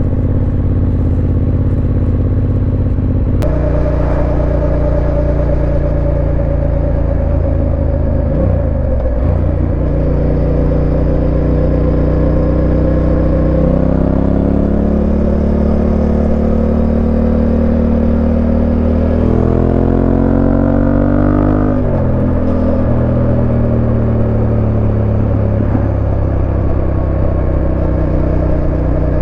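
Yamaha Ténéré 700's parallel-twin engine running under way, its note stepping with gear changes a few times and rising steadily for about two seconds late on before dropping back.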